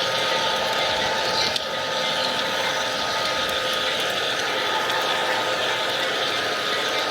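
G-scale model train running steadily on track. Its electric drive and gears give a constant whine over the noise of the wheels rolling.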